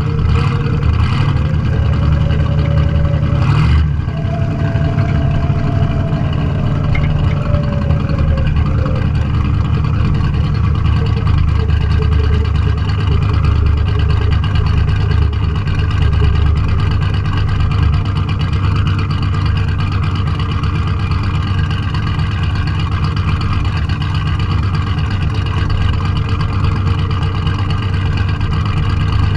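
Car engine running under load, its pitch climbing and then falling over the first several seconds, with a sharp click about four seconds in.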